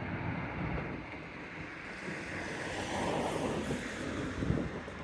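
Wind buffeting the microphone over a steady rushing rumble that swells about three seconds in.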